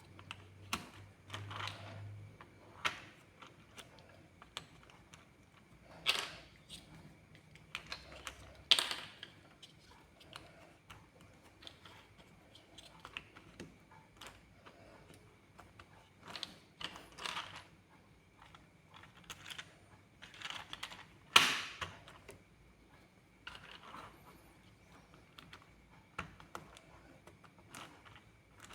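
Plastic building bricks clicking and tapping as pieces are handled and pressed together, in an irregular run of small clicks with a few sharper snaps, the loudest about three quarters of the way through.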